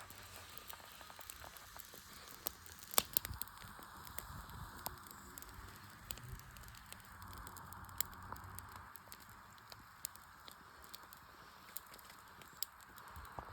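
Wood fire burning, crackling with scattered sharp pops and snaps, a quick cluster of louder pops about three seconds in.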